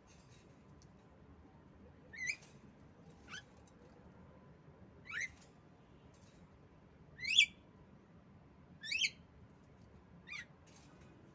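Female Javan myna (jalak kebo) giving short, sharp rising calls, six of them about one to two seconds apart, the loudest about seven seconds in.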